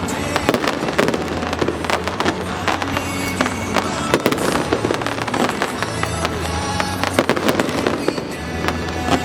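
Fireworks going off in rapid succession, a dense run of bangs and crackles, over loud music with sustained bass notes.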